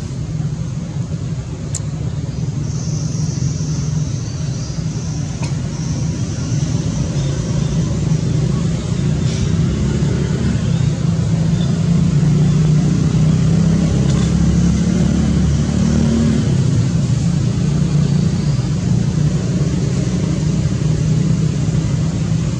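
A low, steady engine rumble, like a motor vehicle running close by, growing louder over the first half and then holding steady.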